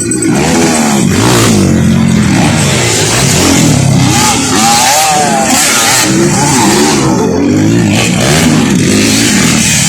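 Dirt bike engine revving up and down again and again as it is ridden off-road, loud throughout.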